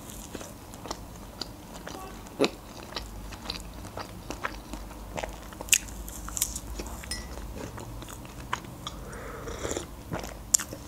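Close-miked eating: biting into and chewing a soft folded pancake (blini), with many small, wet mouth clicks. A sip from a mug near the end.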